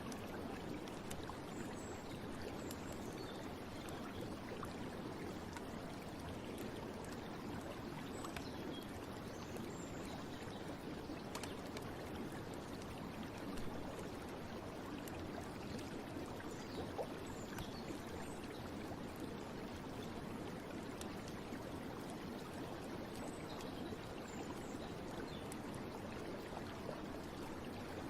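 Steady running water of a stream or brook, flowing evenly without a break.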